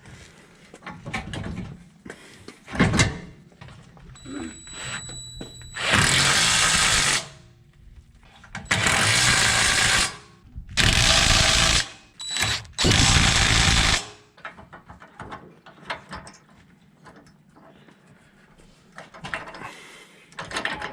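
A power tool running in four bursts of about a second and a half each, with short pauses between them, between quieter clicks and knocks of tools on metal.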